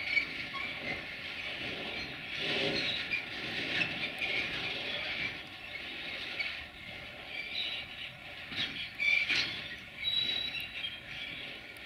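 Bogie freight wagons rolling slowly over switches and rail joints: a steady rumble broken by irregular metallic knocks, with a few short high wheel squeals.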